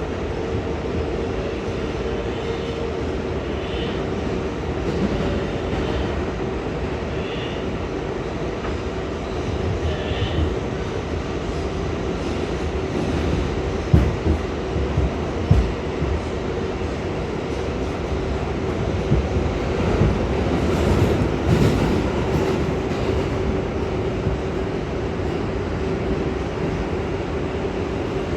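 R142A subway train running steadily between stations: a continuous rumble of wheels on rail with a steady hum from the train. A few sharp knocks from the wheels over the track come about halfway through and again a little later.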